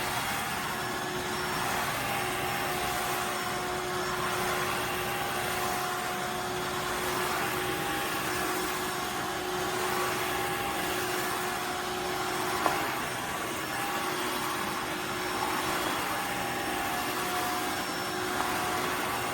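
Cordless wet-dry floor vacuum running steadily: a continuous whoosh of suction with a steady hum, and a single sharp click about two-thirds of the way through.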